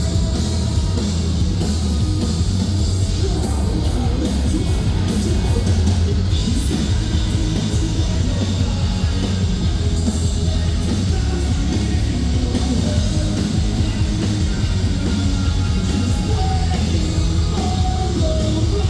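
Live metalcore band playing loudly: drums, heavy bass and guitars, with vocals over the top.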